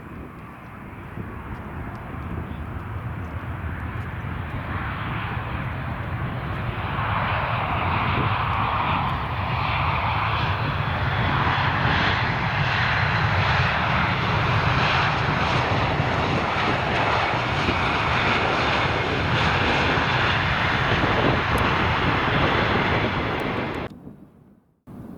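Jet airliner's engines on landing approach, passing close: the noise builds over the first several seconds, holds loud, then cuts off shortly before the end.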